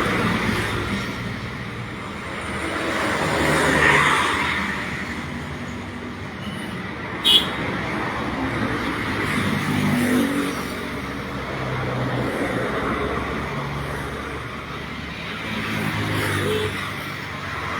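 Road traffic, with vehicles passing one after another in slow swells of engine and tyre noise, and a single sharp click about seven seconds in.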